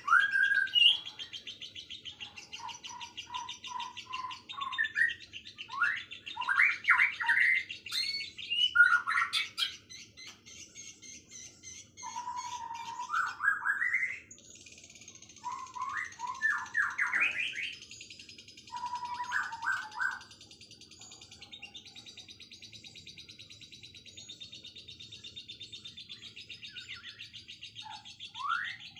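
Songbirds singing: groups of short, rising whistled notes repeat every second or two over a continuous rapid, high trilling.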